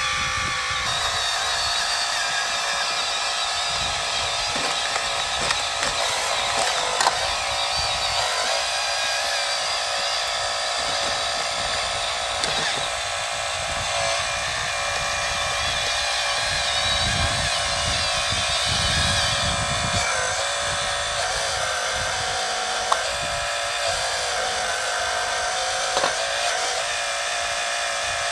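Hydraulic pump and drive of a 1/12-scale RC4WD Earth Digger 4200XL excavator whining steadily as the machine works, with a few sharp clicks.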